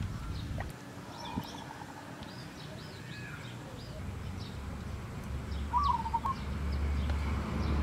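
Birds chirping and calling: short high chirps scattered throughout and one warbling call about six seconds in, over a low rumble that grows louder in the second half.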